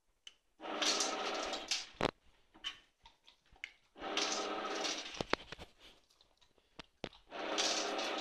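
Treat & Train (Manners Minder) remote treat dispenser running its motor three times, each whir lasting about a second, with sharp clicks in between, the sound of the dispenser cycling to release treats.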